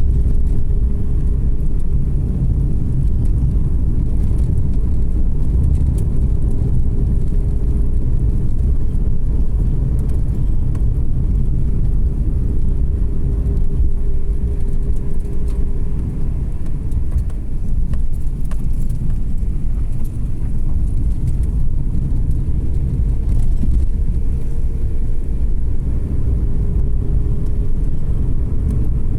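Car driving, a steady low rumble of engine and road noise, with a faint hum that comes and goes several times.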